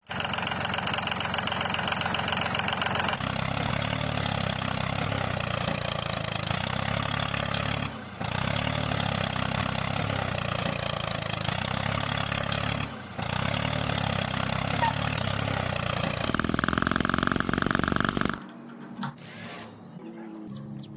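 Miniature 5cc two-cylinder four-stroke gasoline engine running steadily, in spliced clips with short breaks about 8 and 13 seconds in. Near the end a louder, higher whine lasts about two seconds, then gives way to quieter scattered sounds.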